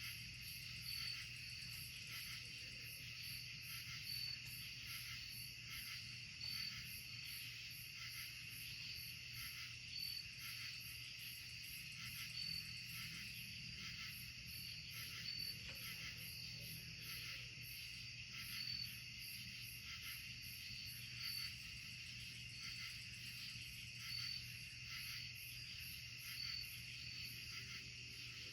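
Night insect chorus: a steady, shimmering high-pitched trill. A short, sharp chirp repeats every two to three seconds over a faint low hum.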